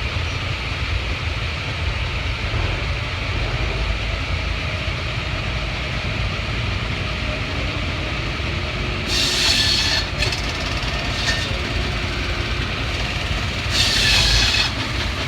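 Steam engine running with a steady low rumble, broken by two loud bursts of hissing steam, one about two-thirds of the way through and one near the end.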